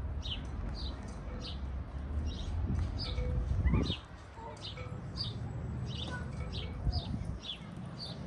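A small bird chirping over and over, short falling chirps about two a second, over a low rumble. Just before four seconds in comes a brief rising sweep, the loudest moment, and the rumble drops after it.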